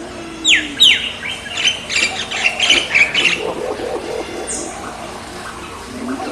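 Pet parrot calling: two sharp screeches falling in pitch, then a quick burst of chattering, and one short high call a few seconds later.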